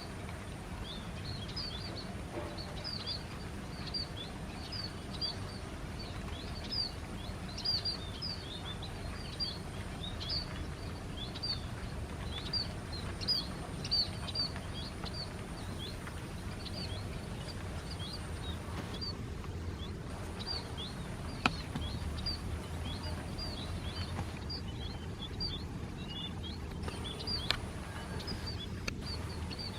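A flock of small birds chirping continually, short high calls several times a second, over a steady low rumble. Two sharp clicks sound in the second half.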